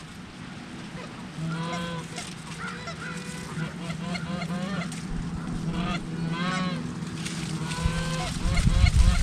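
Geese honking: many short rising-and-falling honks overlapping, as from a flock or goose calls, over a steady low hum. A loud low rumble builds near the end.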